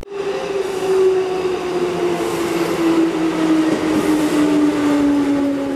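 Train running, with a steady whine that slowly falls in pitch over a bed of rumbling rail noise.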